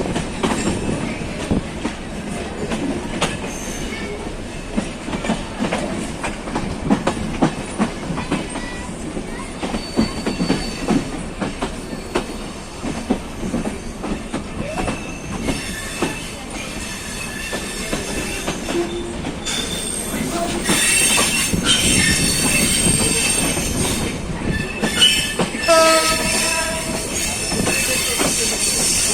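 Bangladesh Railway passenger train running slowly into a station, its wheels clattering over rail joints and points. High-pitched wheel and brake squeal sets in about two-thirds of the way through.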